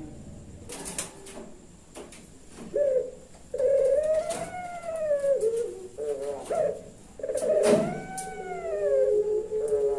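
Puter pelung (domestic Barbary dove) cooing: after about three seconds of quiet, a series of long, drawn-out coos that rise and fall in pitch. A few sharp clicks are heard along with them.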